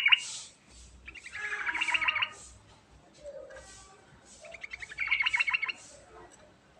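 Yellow-vented bulbul song: two rolling phrases of rapid, closely repeated notes, each a little over a second long and about three seconds apart, with the end of an earlier phrase right at the start.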